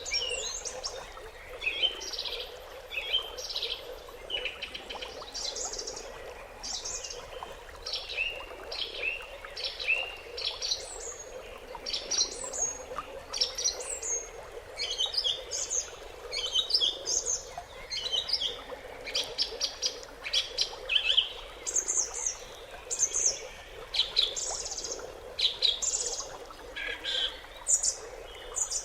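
Several small birds chirping and singing, with rapid short calls and trills overlapping throughout, over a faint steady background hum.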